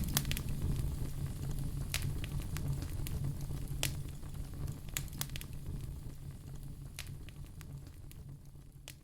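Wood fire crackling in a fireplace: scattered sharp pops and snaps over a low steady rumble, fading out gradually toward the end.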